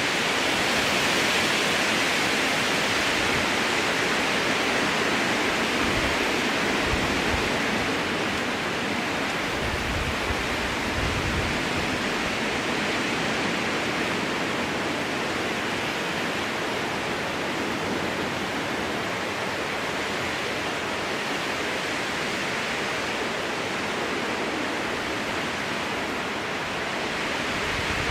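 Strong wind rushing through spruce trees, a steady hiss that swells a little near the start and then eases slightly.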